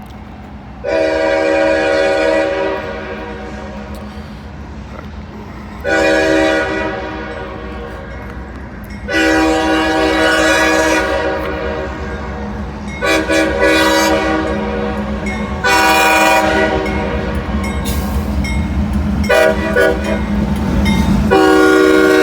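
A CSX diesel locomotive's multi-chime air horn blows a series of about eight long and short blasts as a horn salute. Beneath it the locomotive's engine rumbles, growing louder near the end as the train draws close.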